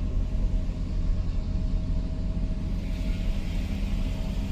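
Steady low vehicle rumble with an even engine hum, and a hiss that grows about three seconds in.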